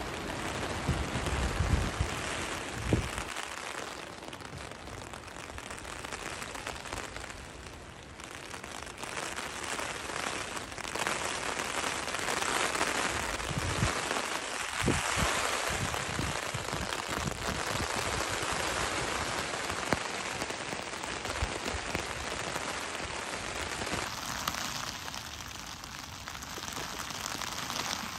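Steady rain falling on a hammock tarp, with low rumbles in the first few seconds and again about halfway through.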